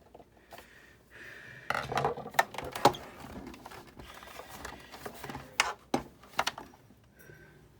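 Irregular clicks, knocks and scraping of small parts and a tool being handled while a die-cutting machine is taken apart, with a few sharper knocks in the middle.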